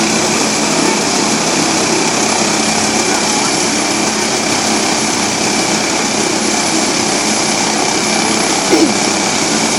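Helicopter's turbine engine running steadily on the ground before lift-off, a constant whine over a broad rushing noise.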